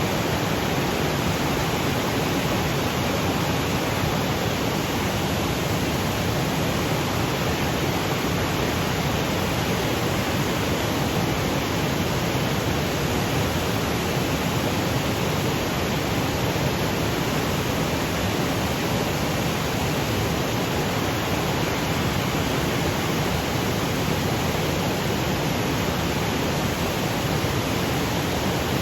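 Waterfall cascading over granite boulders: a steady, even rush of water with no breaks or changes.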